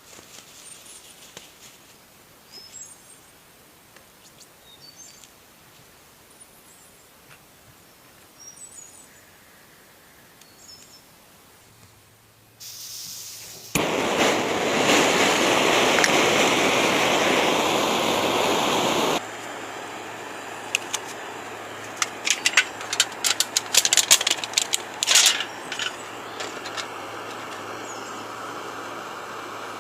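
Faint bird chirps over quiet forest ambience. About twelve seconds in, a loud steady rushing hiss starts and runs for about five seconds. It drops to a lower steady hiss broken by quick sharp clicks and clinks.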